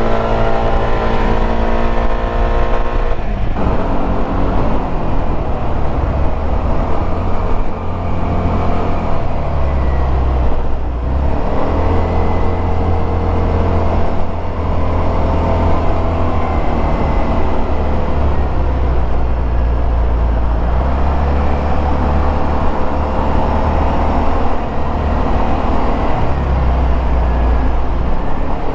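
Suzuki Burgman 200 scooter's single-cylinder four-stroke engine and exhaust under way, its pitch rising and falling with the throttle. The engine note climbs in the first few seconds, drops back, and rises again in the middle and near the end, over a steady low rumble.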